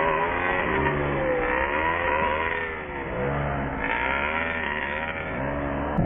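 Small nitro glow engine of an ARX 540 RC motorcycle running, its pitch rising and falling repeatedly as the throttle is opened and closed.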